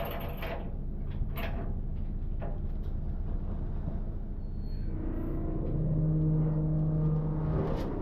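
Steady low mechanical rumble with a few short knocks, then from about five seconds a machine hum comes in, strongest for about two seconds before it fades near the end.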